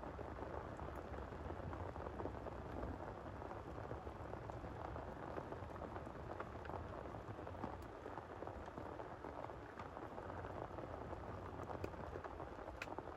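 Steady rain falling hard, with scattered sharper drop hits and one stronger tick near the end.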